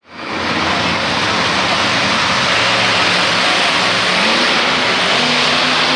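Monster truck engine running loud in an indoor arena, its pitch wandering and climbing a little about four seconds in, under a dense roar of echoing noise. The sound fades in over the first half second.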